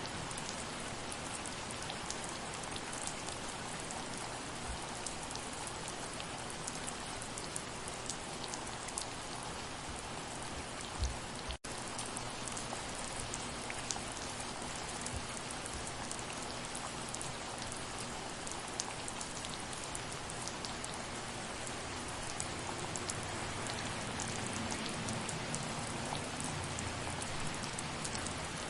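Steady soft rain, an even hiss with many individual drops ticking sharply on a surface. A low thump about eleven seconds in, then a split-second dropout in the sound.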